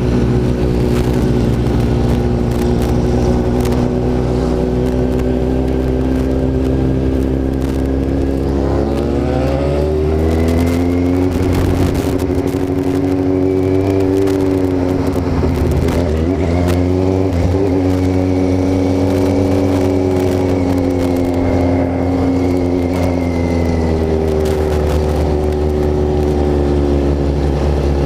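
Kawasaki Z750 inline-four motorcycle engine running under way. Its pitch climbs as it accelerates about a third of the way in, dips briefly around the middle, rises again, and eases back a few seconds before the end.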